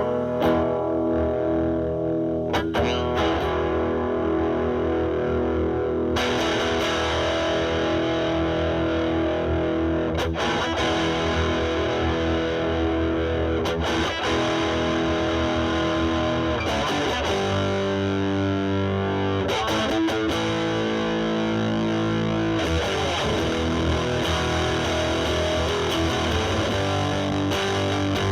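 Electric guitar (Fender Stratocaster) played through a Boss DS-2 Turbo Distortion pedal into a Marshall Valvestate amp's drive channel, at a setting where the distortion cleans up. Chords are strummed and left to ring, with a new chord every few seconds.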